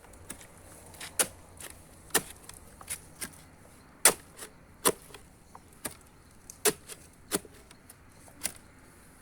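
A series of sharp knocks or cracks, about one a second and unevenly spaced, over a faint steady outdoor background.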